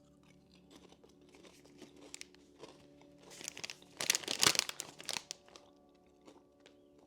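Crinkling and rustling of a bag of steak-flavoured Lay's potato chips, with light crackles at first and the loudest rustling about three to five seconds in.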